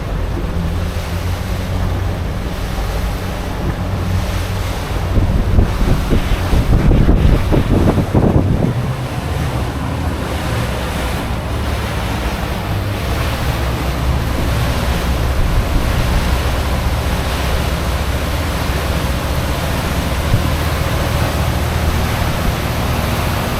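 Fishing boat underway on its new Mercury 225 outboard during break-in: a steady low motor drone under wind buffeting the microphone and water rushing past the hull. The water and wind noise swell louder for a few seconds from about five to nine seconds in.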